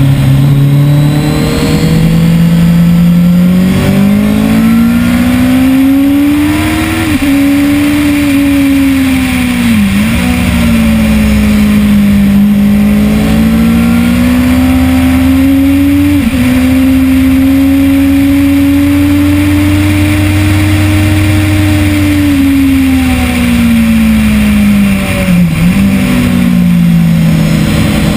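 2010 Kawasaki ZX-10R's inline-four engine running hard through the gears at track speed. Its note climbs and drops sharply at two upshifts, and twice dips then jumps back up as the rider brakes and changes down.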